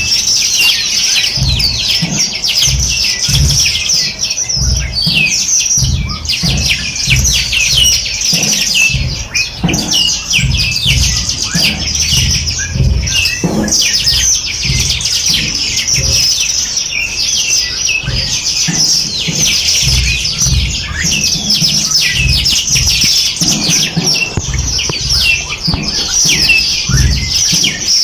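A dense chorus of many small birds chirping and twittering at once, without a break. Irregular low thumps run underneath.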